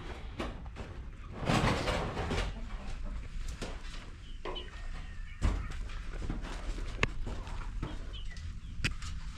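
Birds chirping faintly a few times, with scattered knocks and a short burst of rustling noise near the start.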